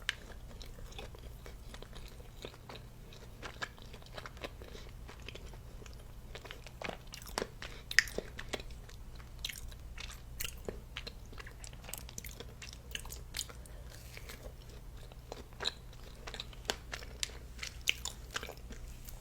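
A person chewing a bite of strawberry brownie cookie, with many small, quiet mouth clicks and smacks scattered throughout over a faint steady low hum.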